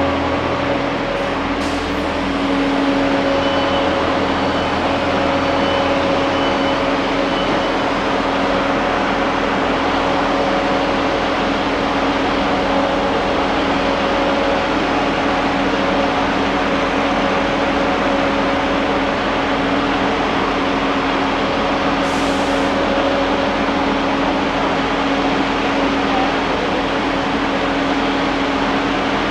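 Steady mechanical hum of a GWR train standing at the platform, its engine and air-conditioning running at idle, with a brief high hiss about three-quarters of the way through.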